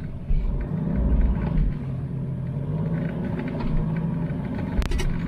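A 4x4's engine running under load as it drives through soft sand in two-wheel-drive high, with a steady low rumble. A single sharp knock near the end.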